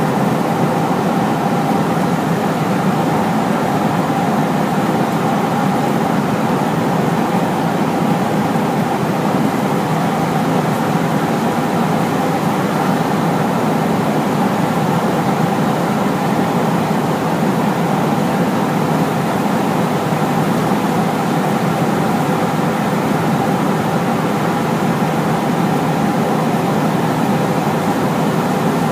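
Large Hino truck driving at a steady speed: the diesel engine running together with tyre and road noise, an even drone with a couple of steady hum tones and no rise or fall in pitch.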